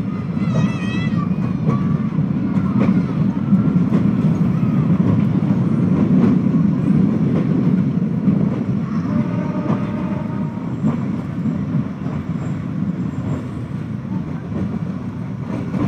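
Passenger train running along the track, heard from aboard as a steady low rumble. A brief high wavering call sounds about half a second in.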